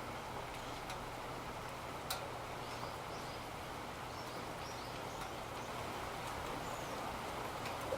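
Steady rain with a few scattered sharp clicks. Several short high chirps come through near the middle.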